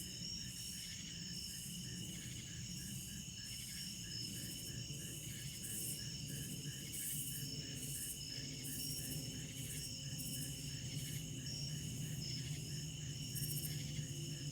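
Night insects: crickets chirping about three times a second over steady high-pitched trilling. A low rumble runs underneath and grows louder in the second half.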